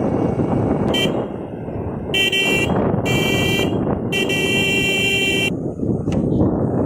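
Vehicle horn honking: a short toot about a second in, then three blasts, the last one longest, over the steady noise of a moving vehicle's engine and road.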